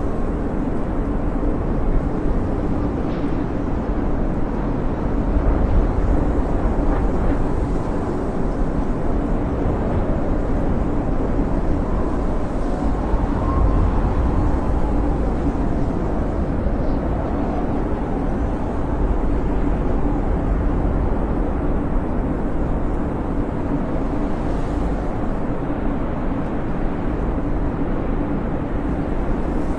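Snowstorm wind blowing steadily with a deep rumble and faint whistling that wavers up and down in pitch.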